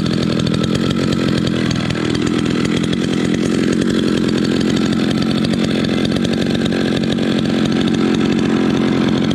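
Echo 650 EVL 65cc two-stroke chainsaw engine running steadily and loudly.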